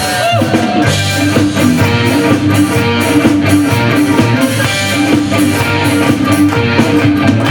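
Live rock band playing an instrumental passage between sung lines, with electric guitar playing a melody over strummed guitar, bass and drum kit.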